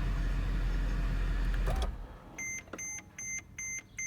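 Mercedes-Benz E55 AMG's 5.4-litre V8 idling, then switched off and cutting out a little under two seconds in. About half a second later the car's electronic warning chime starts, high, even beeps about twice a second.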